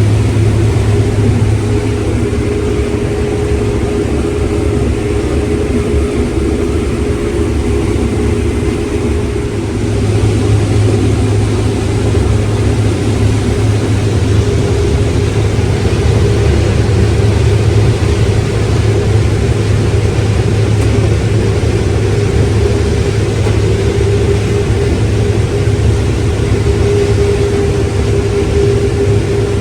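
Heavy farm machinery engine running steadily under load, a deep hum with a steady higher whine over it.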